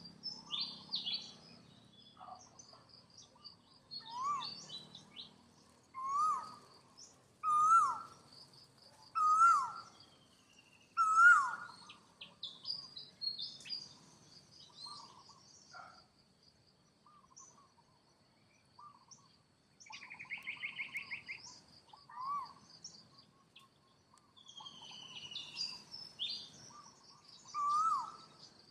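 A series of short, rising-then-falling animal calls repeated every one to two seconds, growing louder in the middle, over high chirps and a steady high whine. A brief rattling trill comes about two-thirds of the way through.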